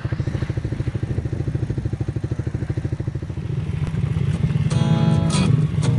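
Motorcycle engine running at a steady low speed with a fast, even pulsing beat. About four and a half seconds in, strummed acoustic guitar music comes in over it and grows louder.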